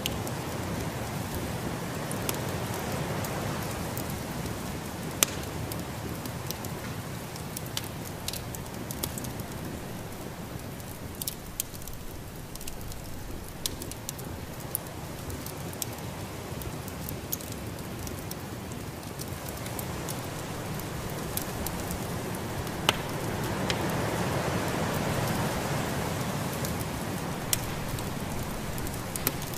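Wood fire crackling in a fireplace, with irregular sharp pops, over the steady rush of snowstorm wind that swells about two-thirds of the way through.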